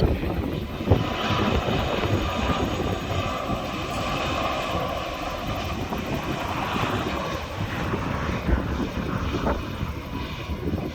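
Airbus BelugaXL landing, its twin turbofan jet engines giving a steady rumble with a whine on top, with wind buffeting the microphone.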